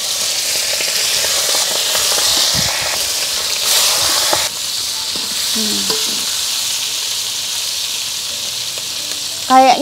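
Skewered offal deep-frying in hot oil: a steady, busy sizzle that swells louder for about a second around four seconds in, then settles back.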